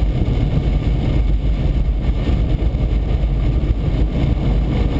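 Steady low rumble of a car driving at highway speed, heard from inside the cabin: engine, tyre and wind noise, with no sudden changes.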